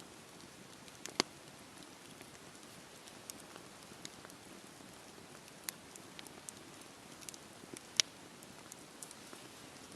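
Campfire burning: a soft steady hiss of flames with irregular sharp pops and crackles from the wood, two louder pops about a second in and near eight seconds.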